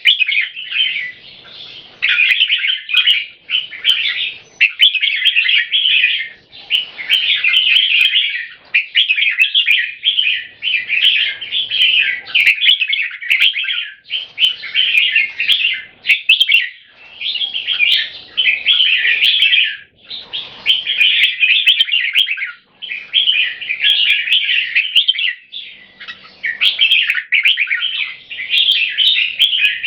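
Two red-whiskered bulbuls counter-singing, each pouring out quick warbled song phrases almost without pause as they try to outsing each other, a sign of controlled aggression. Faint sharp clicks come here and there.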